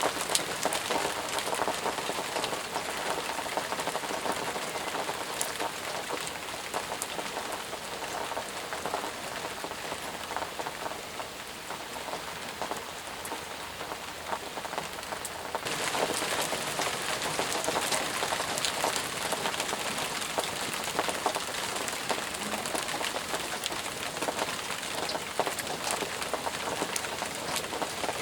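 Steady rain falling, a dense hiss speckled with many separate drop ticks. A little past halfway the sound turns suddenly brighter and slightly louder, then holds steady.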